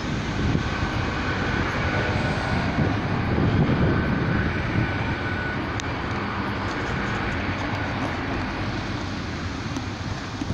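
A Great Western Railway intercity train passing close by: a steady rumble of wheels on rail, with a faint steady whine from the train in the first half.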